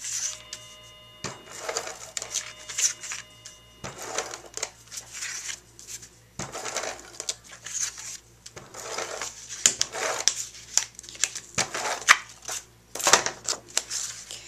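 Cardstock and paper pieces being handled, slid and pressed together on a work surface: irregular rustling and scraping strokes with light taps and clicks, about one a second.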